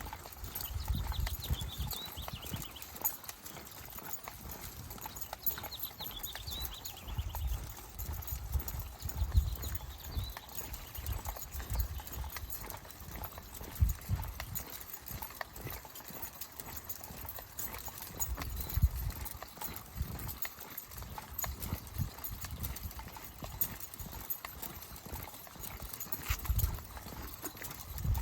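Footsteps of a person walking with a pack of dogs: a steady, uneven run of dull low thumps with a few sharper knocks.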